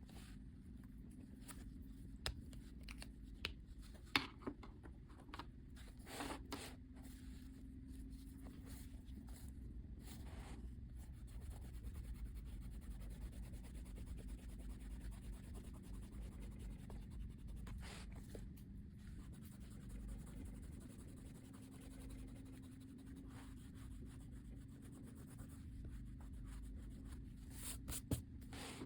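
Faint scratching and rubbing strokes of a drawing tool on paper, with a few sharper taps now and then, over a steady low hum.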